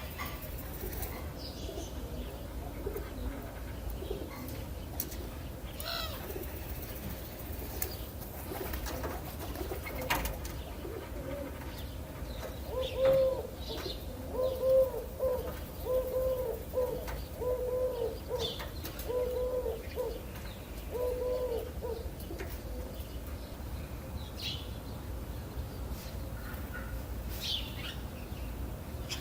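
A dove cooing: a series of about eight low, evenly repeated coos in the middle of the stretch, with short high chirps from small birds scattered around it over a steady low background rumble.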